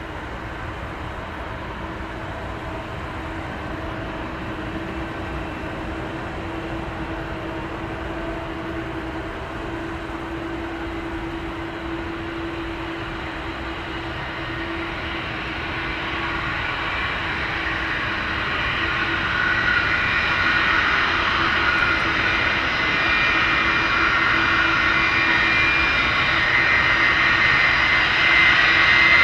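Jet airliner's engines, growing steadily louder over the second half, with a high whine of several tones coming in over the rumble.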